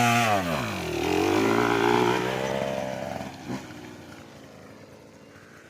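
Two-stroke single-cylinder engine of a Husqvarna TC 150 Heritage dirt bike revving hard as the bike pulls away. The pitch climbs, drops once about a second in, climbs again, then fades steadily as the bike rides off.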